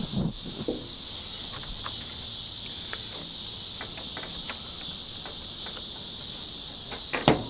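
A steady, high-pitched chorus of insects, with scattered small clicks and knocks of parts being handled on a truck door and a few sharp louder clicks near the end.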